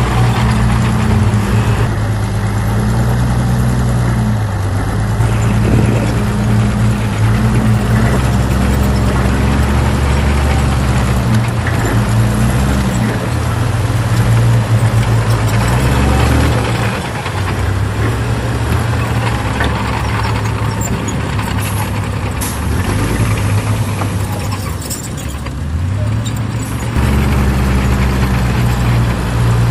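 Heavy diesel engines of earthmoving machines (bulldozer and dump trucks) running: a steady, loud low engine hum whose pitch and loudness change abruptly several times.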